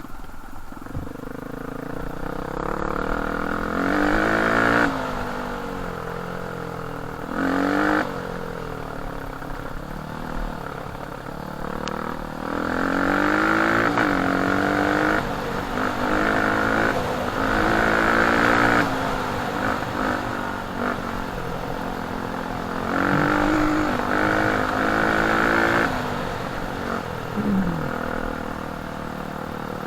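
Dirt bike engine revving up and easing off over and over as it is ridden, its pitch rising and falling with the throttle, with several louder surges.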